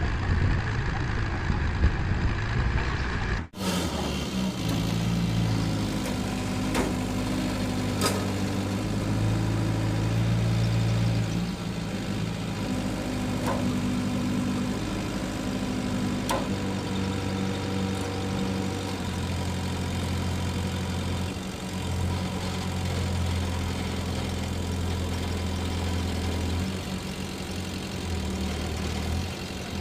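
A Leyland truck's diesel engine running steadily at a low pitch that shifts in steps. There is a brief break in the sound about three and a half seconds in.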